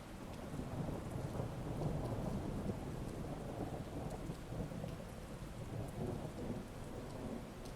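Heavy rain with a long low rumble of thunder that builds about half a second in, is loudest around two seconds, and rolls on with swells.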